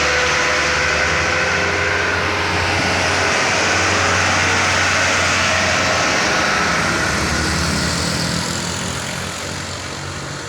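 Sugarcane truck's diesel engine labouring at full throttle up a steep bend, loud and steady, fading near the end.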